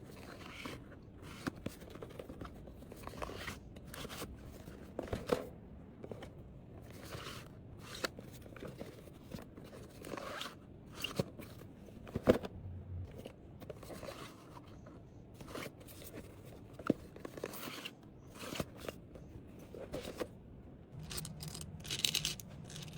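Small items and packaging being handled and packed: scattered light clicks, taps, rustles and scrapes, with a few sharper taps, one about twelve seconds in.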